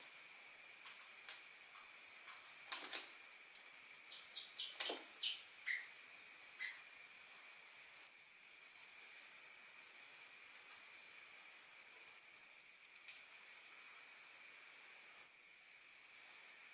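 Orange-headed thrush giving thin, very high 'ngecis' calls, each a falling whistle about a second long, five times a few seconds apart. These are calls used to lure in a male.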